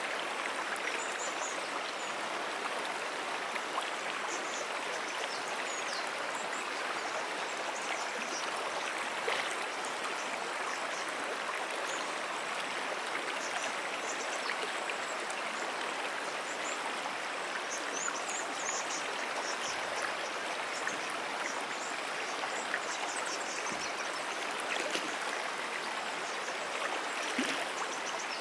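Moonan Brook, a perennial stream, flowing in a steady, even rush of water. Faint high chirps sound now and then above it.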